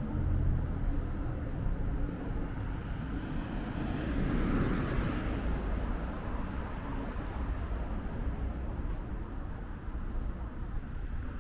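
A vehicle passing by over a steady low rumble of city traffic: its sound swells about four seconds in and fades away again.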